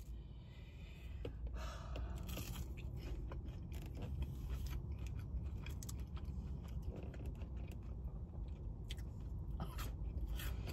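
Close-up chewing of a sauce-dipped breaded chicken piece: crunching and many small wet mouth clicks, kept up steadily.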